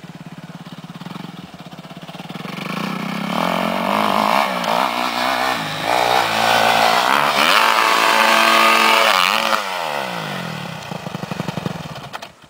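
Dirt bike engine running low, then revving up hard from about two seconds in and holding high revs with changing pitch. Past the middle the revs drop in a long falling slide, and the sound cuts off abruptly near the end.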